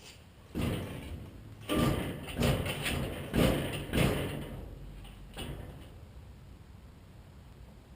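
A series of knocks and bangs, about five loud ones in three and a half seconds, then a fainter one.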